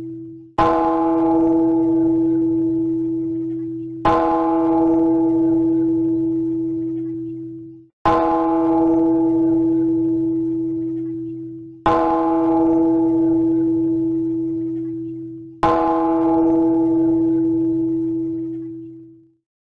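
A bell-like tone struck five times, about every four seconds, each strike ringing steadily and fading away before the next.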